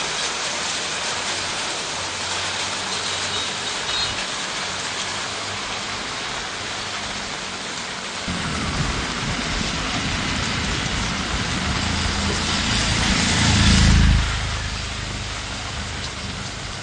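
Heavy rain hissing steadily. About eight seconds in, a motor vehicle's engine rumble comes up under it, grows loudest near the fourteen-second mark, then fades as the vehicle passes.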